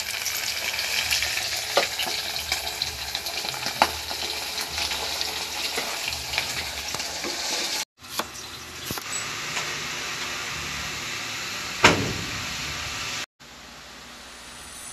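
Chicken pieces deep-frying in hot oil in a steel pot: steady sizzling with scattered pops and crackles. The frying cuts off abruptly about eight seconds in, giving way to a quieter hiss with one sharp knock about twelve seconds in.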